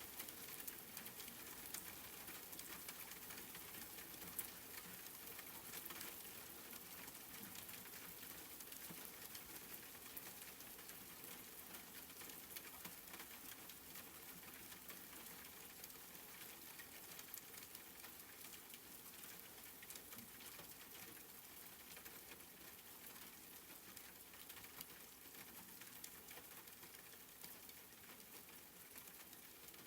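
Soft, steady rain pattering, a faint even hiss with fine scattered drop ticks, fading slightly towards the end.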